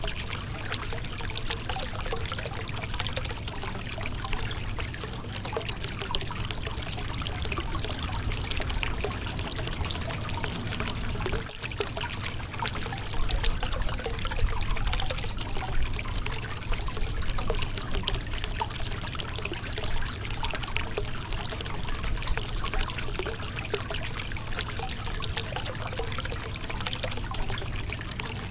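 River water flowing over a rocky bed: a steady rushing and trickling.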